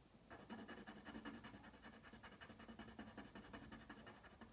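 Near silence, with faint rapid scratching of colouring strokes on paper.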